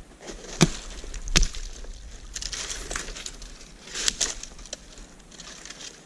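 Firewood being gathered and broken up: two sharp wooden cracks about a second apart, then irregular crunching and rustling.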